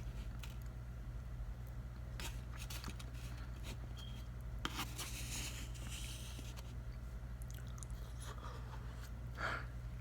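Close-miked eating: chewing and wet mouth clicks, with a few louder bits about halfway and near the end, over a steady low electrical hum.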